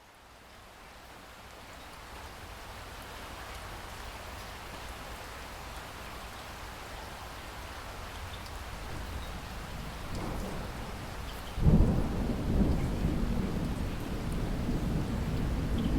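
Steady rain fading in as a soft, even hiss, then a sudden low clap of thunder about two-thirds of the way in that goes on rumbling over the rain.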